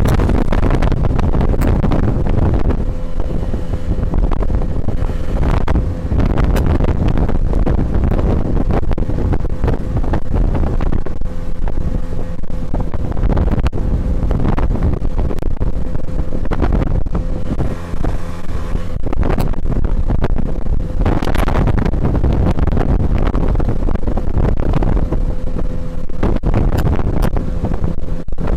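Tohatsu 9.8 outboard motor running at a steady speed, pushing an inflatable motorboat, with strong wind buffeting the microphone.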